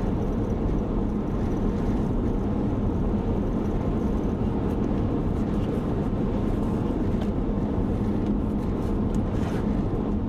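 Steady road and engine noise inside a moving car's cabin, with a faint steady hum and a few light ticks.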